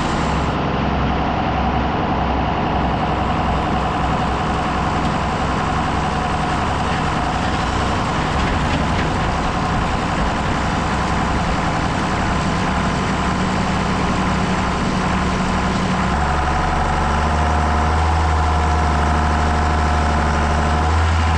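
Farm tractor engine running steadily, with a deeper, slightly louder drone setting in about three-quarters of the way through.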